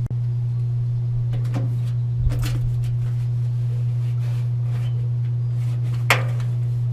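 A steady low hum, with a few short crinkling rustles of aluminum foil tape being handled, about one and a half, two and a half and six seconds in; the last is the loudest.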